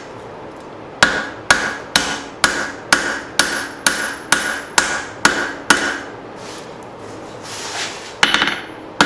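Blacksmith's hammer striking a hot leaf-spring hatchet head on an anvil at a steady pace of about two ringing blows a second. After a pause, a quick flurry of lighter strikes comes near the end.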